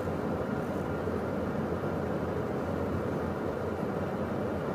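Steady cockpit noise of a Beechcraft Premier 1A business jet in flight: an even rush of airflow with a low hum underneath.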